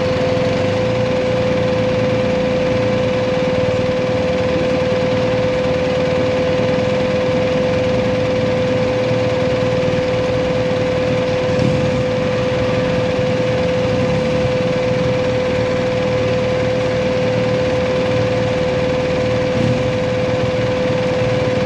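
BMW GS Adventure motorcycle running steadily on the road, heard from on the bike, with a steady whine held at one pitch throughout over the engine and road noise.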